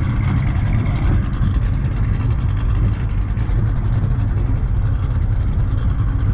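Car engines running as cars pull out and drive off, a steady low rumble.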